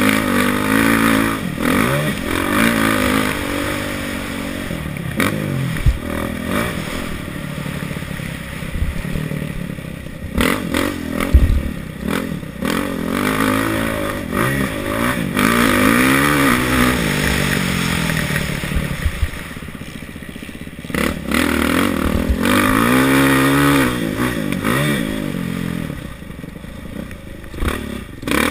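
Kawasaki KX450F single-cylinder four-stroke motocross engine, heard close on board, revving up and falling off again and again as the rider works the throttle and gears. Clatter and knocks from the bike over the bumps, with a sharp thud about six seconds in and a louder one near the middle.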